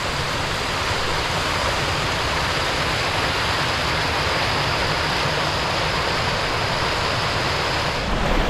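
A hillside stream rushing and splashing steadily over rocks, with a low rumble of wind on the microphone underneath.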